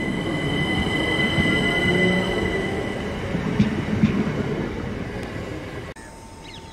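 Electric multiple-unit train running past along the platform: a heavy wheel-on-rail rumble with a steady high whine, and two sharp clacks from the wheels about halfway through. The sound cuts off abruptly near the end.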